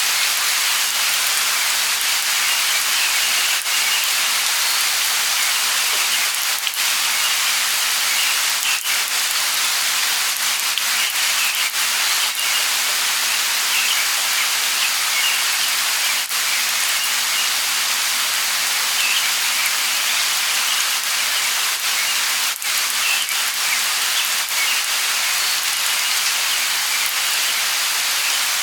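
Steady light rain falling, with occasional louder single drops and faint, scattered bird chirps.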